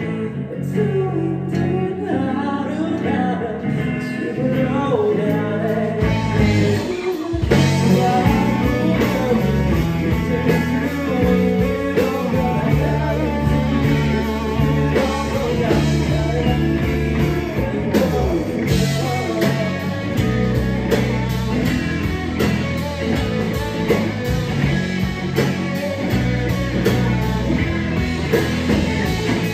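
Rock band playing a song with electric guitar, bass, drums and singing. The full band, drums included, comes in louder about seven seconds in.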